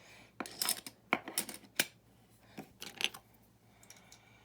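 Plastic LEGO-compatible building bricks clicking and clattering as pieces are handled and pressed together: a quick run of sharp clicks over about three seconds, then quieter.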